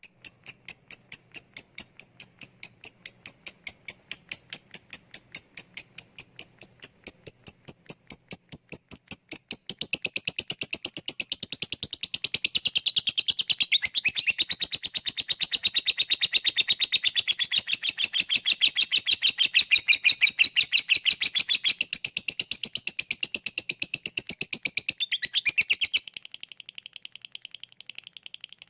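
Lovebird calling: first a run of sharp ticking chirps about five a second (the 'ngetik' call), then from about ten seconds in a long, faster, unbroken high-pitched chatter (the 'ngekek' trill), which drops to softer chirps near the end.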